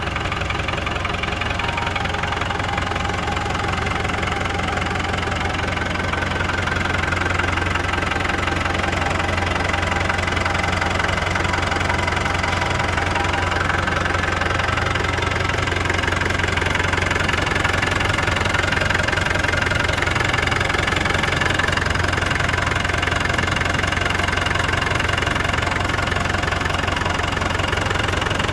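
Engine idling steadily just after a cold start, growing slightly louder over the first few seconds and then holding an even note.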